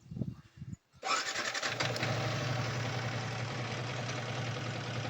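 Yamaha R15 V3's single-cylinder engine starting about a second in, catching at once and idling steadily.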